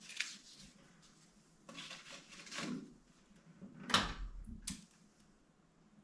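Scraping and rustling handling noises, then a heavy knock with a low thud about four seconds in and a lighter knock just after.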